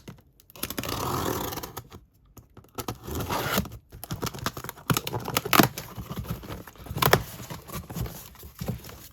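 A large cardboard delivery box being opened by hand: a longer tearing sound near the start, then irregular rustling and scraping of cardboard and packing, with a few sharp knocks.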